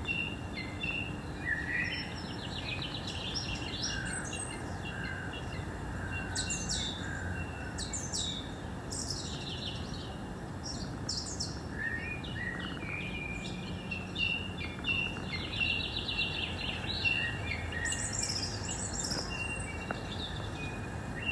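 Several wild birds singing and calling, with two fast trills, one about two seconds in and another around fifteen seconds, over a steady low background rumble.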